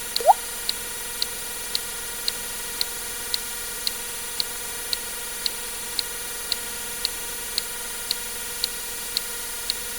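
A single water-drip sound effect, a short rising plink about a third of a second in, over short high ticks about twice a second and a steady hiss.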